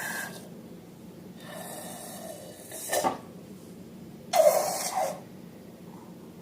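Handling noises from slime and balloons: a soft rustle, a sharp click about three seconds in, then a louder rushing burst lasting under a second.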